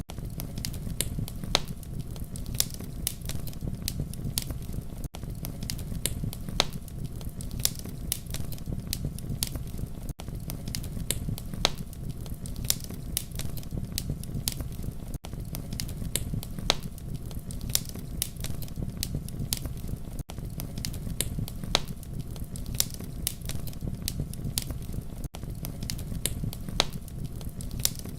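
Wood fire crackling: frequent sharp snaps and pops over a steady low rumble of burning. It is a short loop, with a brief dip in level about every five seconds where it repeats.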